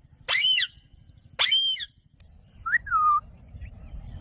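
Green parrot calling: two short, loud, shrill calls about a second apart, then a quieter whistled call that rises and then falls.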